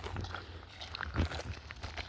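Footsteps and movement over rough ground: scattered light crunches and knocks, one firmer knock about a second in, over a low rumble.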